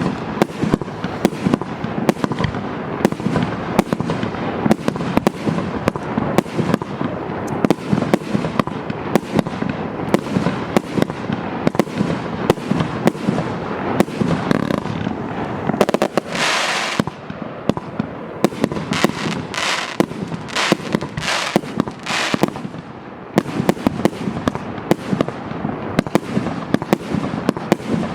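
Multi-shot firework battery (Maxsem MC12200) firing a rapid, continuous barrage of bangs, with a few longer hissing bursts midway through.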